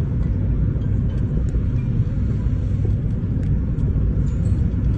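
Steady low rumble of a moving truck: engine and road noise, with a few faint ticks.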